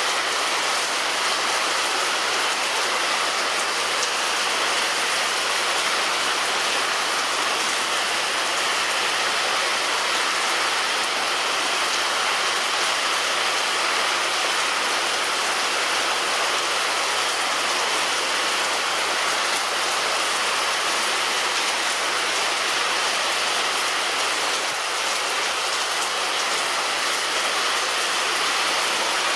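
Rain falling steadily on a roof: an even patter of drops with no let-up and no thunder.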